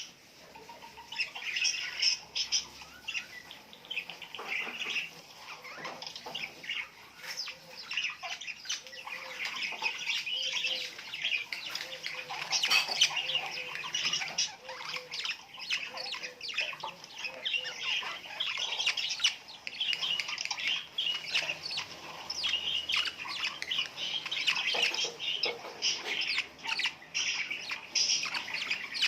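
Many small birds chirping and chattering at once, a dense, continuous mix of short high calls.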